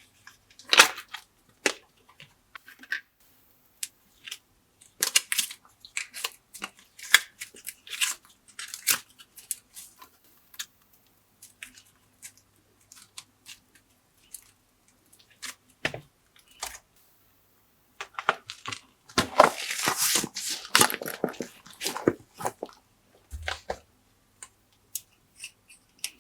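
Glossy slime being worked by hand, with irregular sticky clicks and crackles. A denser run of crackling comes from about 19 to 22 seconds in.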